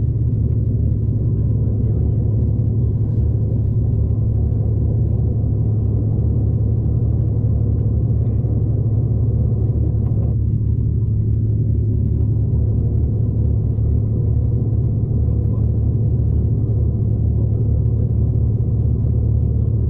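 Steady low rumble of a V/Line passenger train running, heard from inside the carriage; the higher part of the noise drops away about halfway through.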